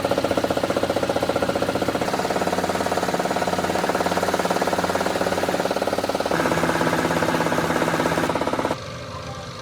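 A machine running with a rapid, even pulse. It changes pitch twice and stops abruptly near the end.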